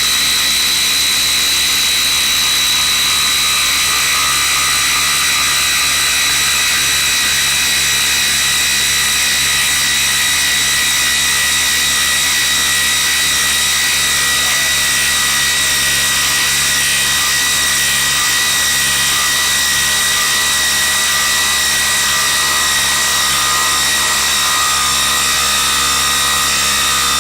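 DeWalt 20V MAX XR brushless impact driver running continuously under load, driving a 10-inch fastener, with a steady high-pitched whine.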